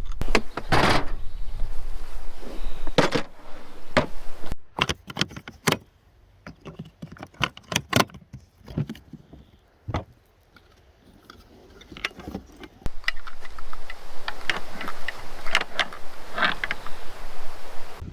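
Clicks, knocks and rattles of camera-mount gear being handled and fitted together, with a quieter stretch in the middle. A low rumble, likely wind on the microphone, comes and goes.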